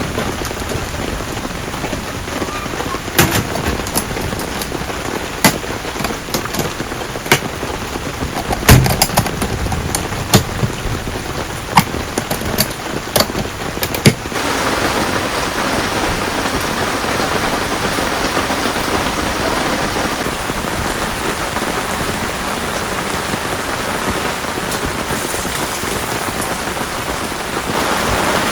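Heavy rain falling, a steady hiss with scattered sharp drop impacts through the first half. About halfway it changes abruptly to a denser, even downpour hiss.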